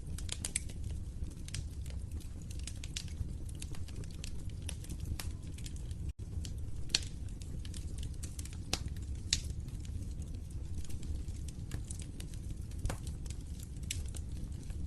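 Wood fire crackling in a fireplace: irregular sharp pops and snaps over a steady low rumble of the flames. The sound drops out for an instant about six seconds in.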